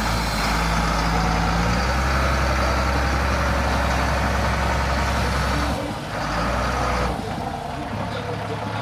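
International DT466 inline-six diesel in a 1987 International 1954 bucket truck running steadily. Its note dips briefly about six seconds in and changes pitch near the end.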